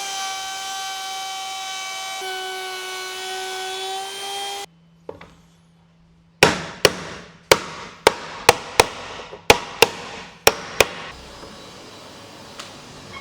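Workshop sounds. A machine runs with a steady high whine that shifts pitch slightly and cuts off abruptly. After a short pause come about ten sharp knocks on wood, irregularly spaced.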